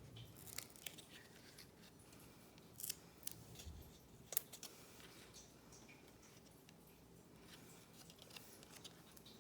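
Faint, scattered small clicks and snips of paper-craft handwork with long quiet gaps between them, as small foam adhesive dimensionals are handled and pressed onto the back of a cardstock greeting.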